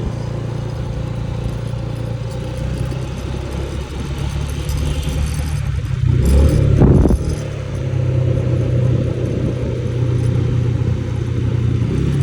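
Motorbike engine running steadily while riding, with a louder swell of noise about six to seven seconds in.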